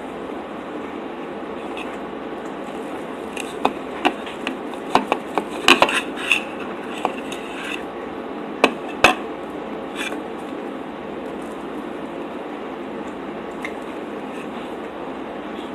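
Cutlery clinking and tapping against a plate while pancakes are eaten: a run of sharp clinks from about four to ten seconds in, over a steady background hiss.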